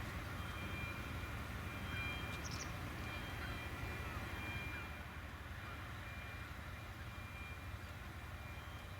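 Faint outdoor background: a steady low rumble with faint, short high beeps repeating at two pitches, fading out about halfway through.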